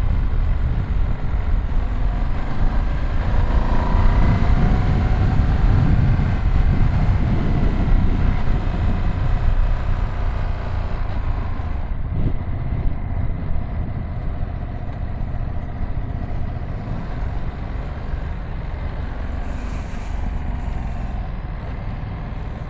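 Ducati Streetfighter V2 S twin-cylinder engine running under way, with wind and road noise. It is louder through the first ten seconds or so, then eases off to a steadier, quieter run.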